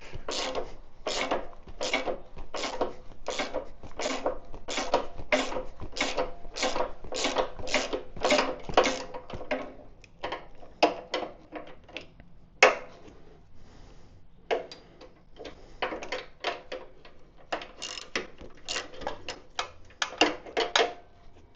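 Hand socket ratchet clicking in quick, regular strokes, about three a second, while backing out Loctited bolts. About ten seconds in it slows to scattered clicks and taps.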